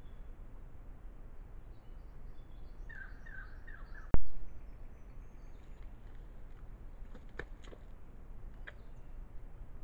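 A bird gives a quick run of four short descending chirps about three seconds in, over a steady low background noise. Just after, a single sharp knock, the loudest sound, is followed later by a few faint clicks.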